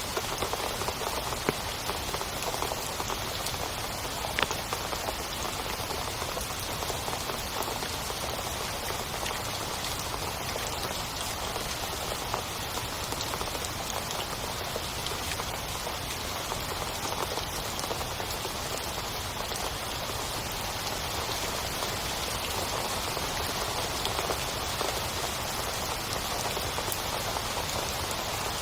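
Heavy rain falling steadily on a tent, a dense hiss of drops with a few louder single drops standing out.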